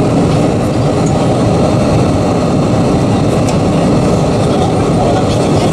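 Steady cabin noise inside an Airbus A320-232: the rush and rumble of its IAE V2500 engines and the airflow, heard from a window seat over the wing.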